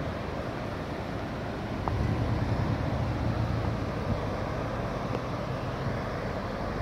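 Shoal Creek in flood, water rushing steadily, with a deeper rumble that grows louder about two seconds in.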